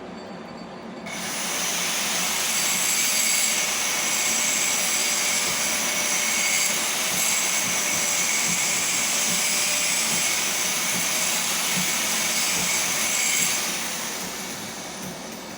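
A machine tool's motor switches on about a second in, runs steadily with a high, hissing whine, then winds down near the end with a falling whine.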